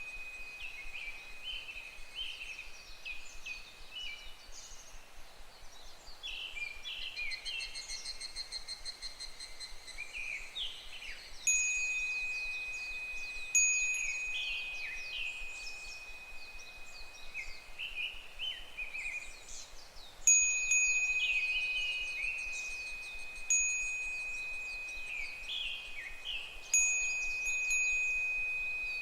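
Japanese wind bell (fūrin) rung five times by its clapper, each a clear high ringing tone that fades over a few seconds. Throughout, a chorus of higurashi cicadas gives short, repeated falling calls.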